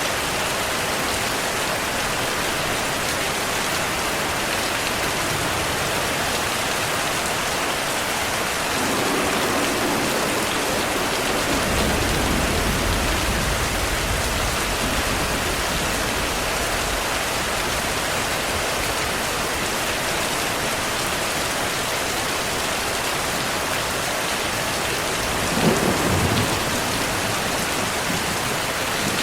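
Heavy rain falling steadily, with thunder: a low rolling rumble builds about a third of the way in and lasts several seconds, and a shorter, sharper thunderclap comes near the end.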